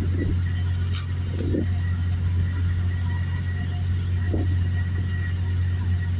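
Ship's engine droning steadily in a low, even hum, with a faint steady high whine above it.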